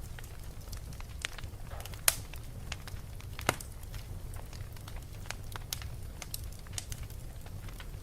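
Wood fire burning in a fireplace: a low steady rumble with scattered crackles and two louder pops, about two seconds and three and a half seconds in.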